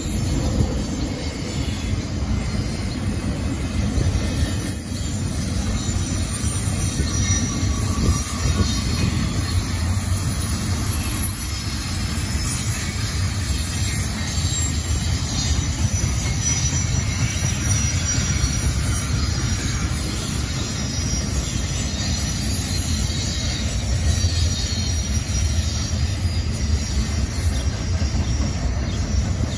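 Double-stack intermodal freight cars rolling steadily past: a continuous low rumble of steel wheels on rail, with faint high-pitched wheel squeals now and then.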